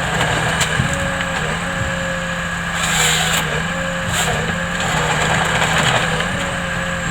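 A logging machine's engine running steadily, with short bursts of wood cracking and splintering about three and four seconds in.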